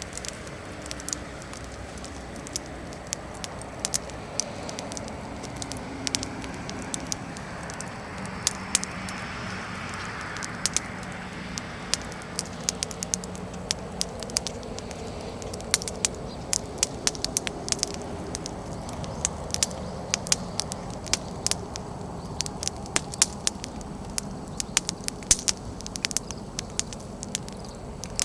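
Wood bonfire crackling: frequent sharp pops and snaps of burning firewood over a steady hiss, the pops coming thicker in the second half.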